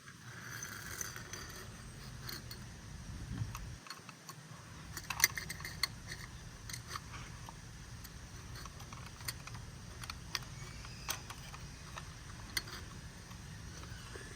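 Toy garbage truck being handled: scattered light clicks and rattles of small plastic parts over a low steady hum.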